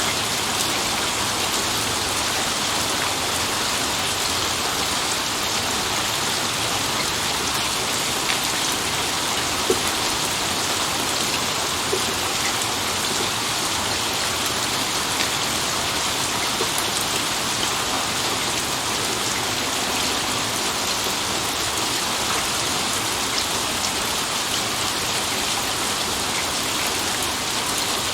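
Steady, dense rain falling, with a few sharper drop impacts standing out around the middle.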